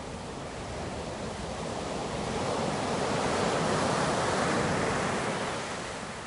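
Ocean waves, a continuous rush of surf that swells to its loudest about halfway through and then eases off.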